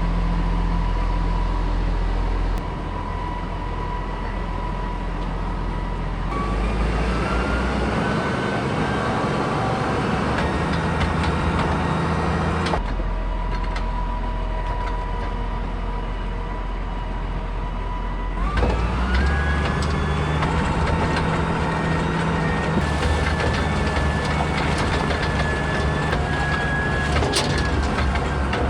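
A farm vehicle's engine running steadily as it drives, with a whine that steps up in pitch about six seconds in, drops back, then steps up again about eighteen seconds in.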